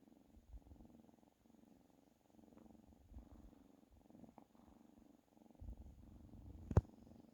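Domestic cat purring, a low pulsing rumble that swells and eases with each breath in and out. A single sharp click cuts through near the end.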